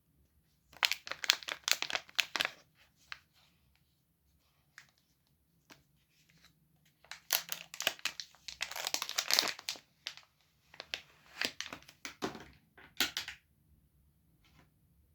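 A soap bar's wrapping crinkling and tearing as it is unwrapped by hand, in three bouts of rustling: one about a second in, a longer one past the middle, and a last one near the end.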